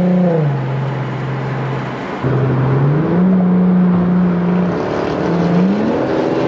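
Car engine revving: the revs drop, hold, climb and drop again in steps, held steady for a second or so at each level, with a sudden louder surge about two seconds in.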